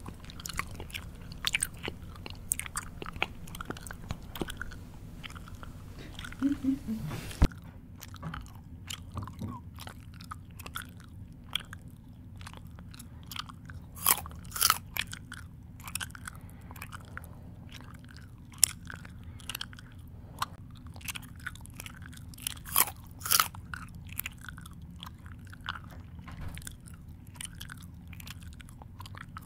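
Close-up mouth chewing and smacking, made up of many irregular sharp wet clicks with a few louder bites spread through.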